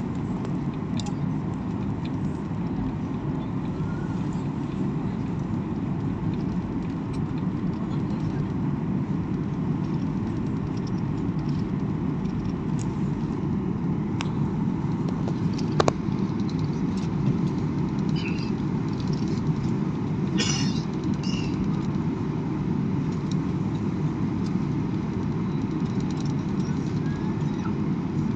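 Steady low rumble of an airliner's jet engines and airflow heard from inside the passenger cabin, with a single sharp click about halfway through.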